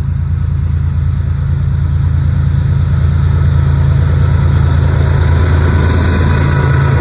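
Diesel locomotive engines of a Norfolk Southern freight train, a steady low rumble growing slowly louder as the train approaches, with a hiss building near the end.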